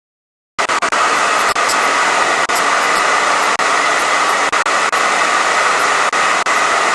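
ShieldLife EMF Freedom hair dryer running, a loud steady rush of air with a whine, cutting in abruptly just over half a second in.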